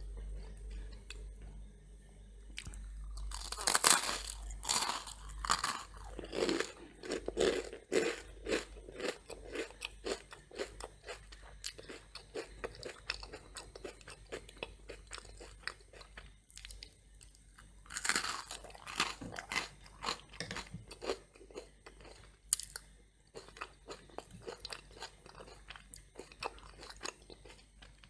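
Close-miked crunchy toast being bitten and chewed. Two loud crunching bites land about four seconds in and again about eighteen seconds in, each followed by a run of steady chewing crunches.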